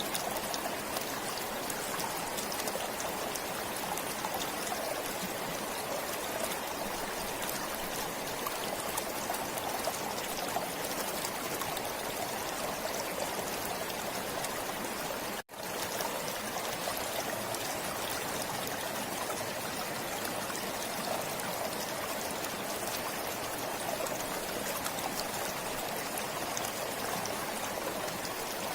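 A forest stream flowing steadily, its water trickling and splashing. The sound drops out for a split second about halfway through.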